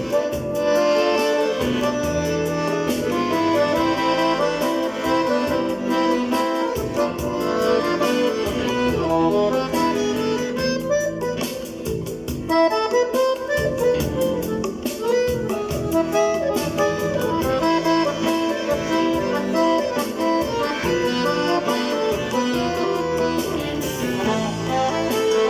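Accordion playing a quick melody, with a MIDI system adding accompaniment and a steady percussive beat.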